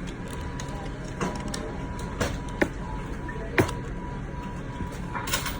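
Store background music over a steady hum, with a few sharp clicks and knocks at a checkout counter, the loudest about two and a half and three and a half seconds in.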